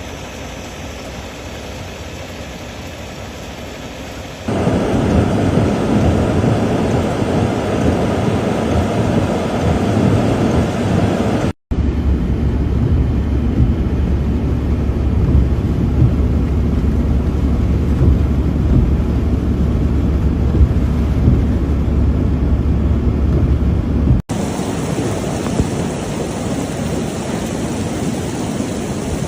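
Flash floodwater rushing, a steady loud noise of water and rain that jumps in character several times as the footage cuts, with a heavy low rumble through the middle stretch.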